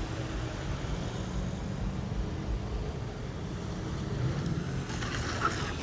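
Steady low rumble of car engines idling, with a brief rise of hiss near the end.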